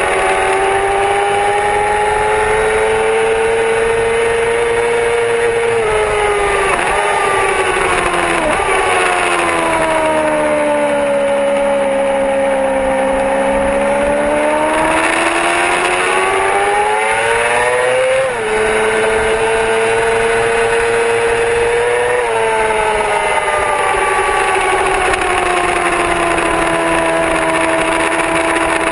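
Yamaha R6 600 cc inline-four sport bike engine running hard at high revs. Its pitch drops sharply through a couple of downshifts about 6 to 9 seconds in, sinks, then climbs steadily under acceleration. It drops again at two upshifts about 18 and 22 seconds in and eases off slowly toward the end, over a steady hiss.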